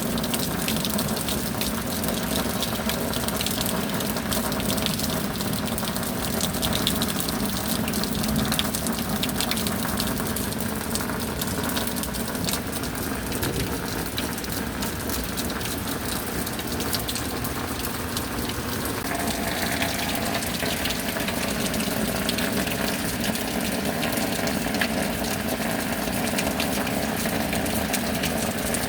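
Steady rain with water gushing and pouring, a constant wash of noise. A faint steady hum lies underneath and shifts in pitch about two-thirds of the way through.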